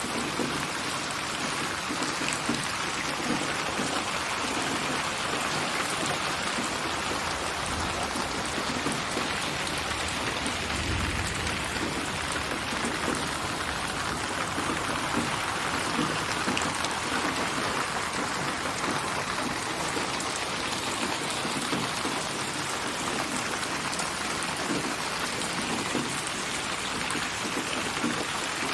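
Steady rain with dense pattering drops: a procedurally built rain ambience made from many recorded rain samples, spatialised to circle the listener in 8D (HRTF) surround. A brief low rumble comes about a third of the way through.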